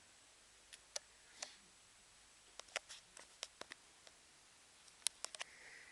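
Scattered sharp clicks and ticks against quiet room tone: a single click or two in the first second and a half, a quick cluster of about six around the middle, and another tight cluster of four or five near the end.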